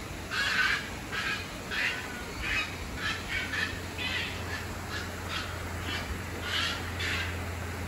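Birds in an aviary giving short, raspy calls, about a dozen in quick, irregular succession, over a steady low hum.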